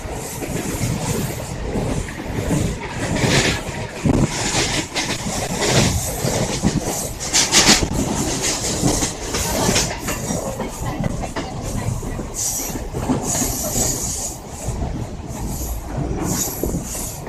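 Mumbai suburban local train running at speed, wheels clattering over rail joints with metallic rattles and brief high squeals from the wheels.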